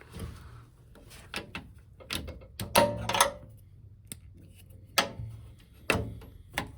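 Knocks and plastic clatter of hands working at a commercial washing machine's lower front panel to get at the drain pump filter, with a loud cluster of clatters about three seconds in and three single sharper knocks near the end.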